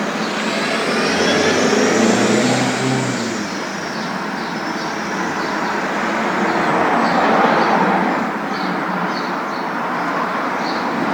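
Steady rumbling road noise of a moving car, heard as continuous white noise. A whine rises and then falls about one to three seconds in.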